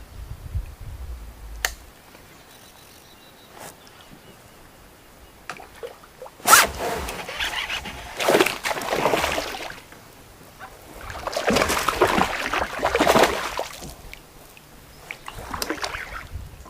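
Water sloshing and splashing around a kayak, starting with a sharp splash about six and a half seconds in and coming in three spells of a few seconds each.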